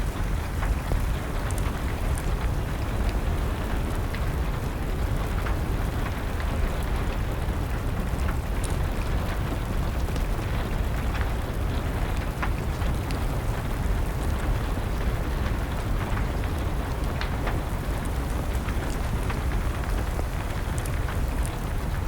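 Steady rain mixed with the scattered pops and crackles of a burning wood fire.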